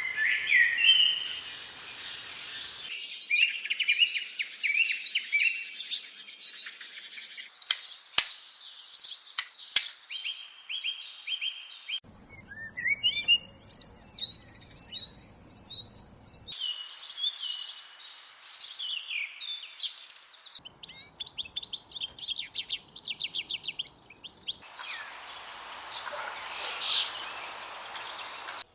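Songbirds singing and chirping in quick trills and short notes, in several separate recordings joined one after another, so the background changes abruptly every few seconds.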